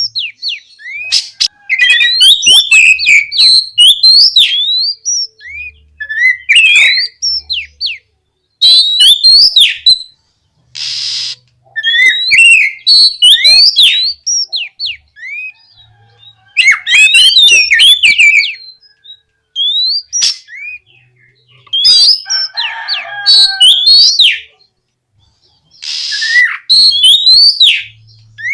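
An Oriental magpie-robin (kacer) in loud, full song: bursts of rapid, varied whistled notes broken by short pauses, with a couple of short harsh rasps mixed in.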